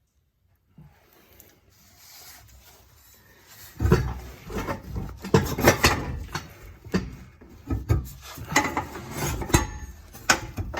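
Steel exhaust X-pipe being worked loose and slid out: irregular metal scraping and clanking that starts about four seconds in.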